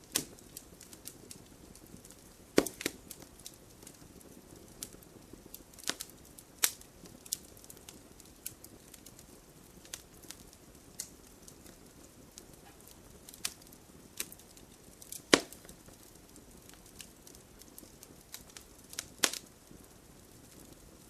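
Wood campfire crackling: irregular sharp pops and snaps over a soft, steady hiss of the flames, with a handful of louder pops, the loudest about fifteen seconds in.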